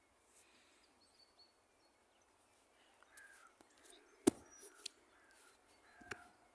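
Faint birds chirping outdoors, with one sharp click about four seconds in and a smaller one near the end.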